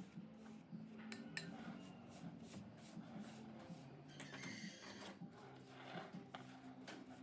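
Quiet background music with a low, stepping melody, over frequent small clicks and scraping of hand work on metal parts.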